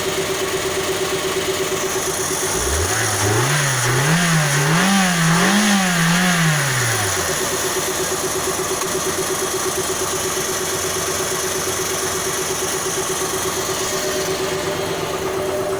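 Toyota Vitz's 2NZ-FE 1.3-litre four-cylinder engine idling with a thin steady whine. About three seconds in it is revved to medium revs, rising and dipping three times, then drops back to idle after about four seconds.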